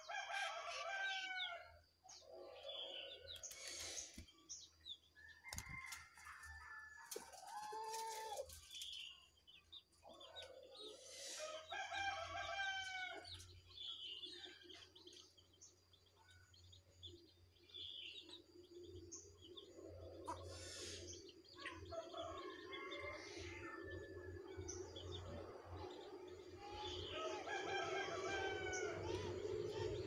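Small birds calling in short bursts of repeated chattering notes, a few seconds apart: a caged jongkangan and the wild birds drawn to it.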